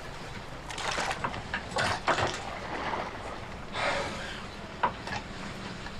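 A boat engine running low and steady at slow ahead, under several irregular wooden knocks and scrapes.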